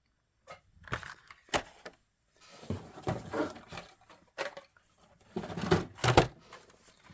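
Carded Hot Wheels cars being handled: plastic blister packs and card backs clicking, knocking and rustling as they are pulled out and set down. There are several sharp clacks and two longer spells of rustling, the loudest just after six seconds in.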